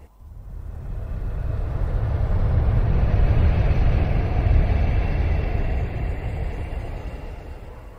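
A long, low rumble of thunder that swells over about three seconds, holds, then slowly dies away.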